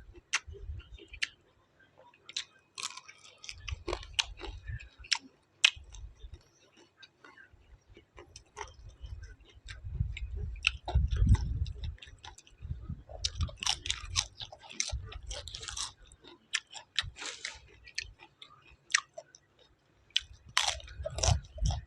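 Close-up chewing and crunching of food, with many scattered crisp crunches and clicks.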